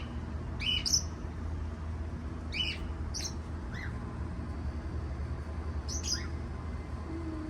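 Cockatiel giving short, high chirps in scattered little groups, with a few seconds' pause in the middle.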